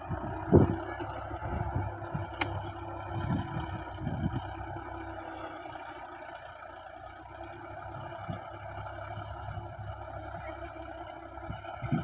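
Tractor diesel engine running steadily, with a few low thumps, the loudest about half a second in.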